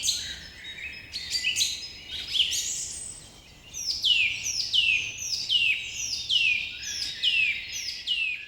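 A bird chirping: mixed short calls at first, then from about four seconds in a steady series of quick falling chirps, repeated about twice a second.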